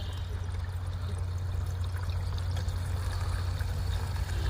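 Diesel mixed with water pouring steadily out of a Mahindra Bolero BS6's fuel system into a bottle, over a steady low hum; water in the diesel is why the engine will not start.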